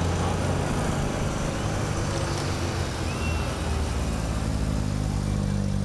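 Classic cars' engines running at low speed in a slow-moving parade: a steady low engine hum whose pitch shifts a little, over tyre and road noise.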